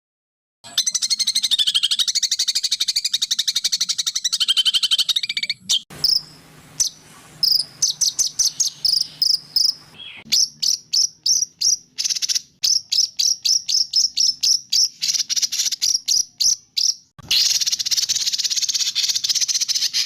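Recorded songbird song played back to back with abrupt cuts: a fast pulsing high trill, then long series of sharp high chirps, then a dense high trill near the end.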